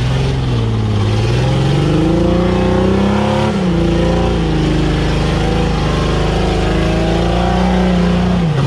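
Off-road vehicle engine running under load, its revs rising and falling slowly and unevenly.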